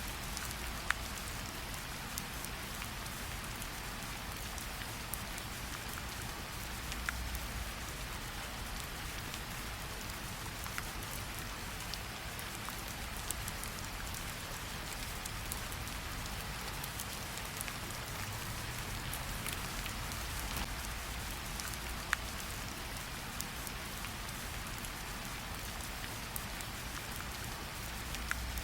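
Steady rain falling on forest vegetation and water: an even hiss, with scattered sharper ticks of single drops and a soft low rumble underneath.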